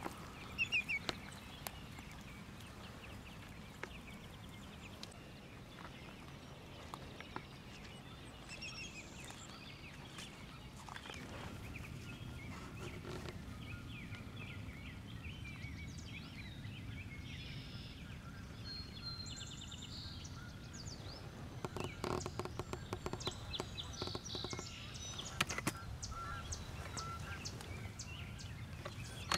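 Songbirds chirping and calling at intervals over a low steady rumble, with a run of quick clicks and knocks about three quarters of the way through.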